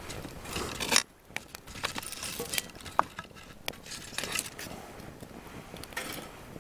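Light metal clinks and taps of camp cookware and utensils being handled, after a brief stretch of wind noise that cuts off abruptly about a second in.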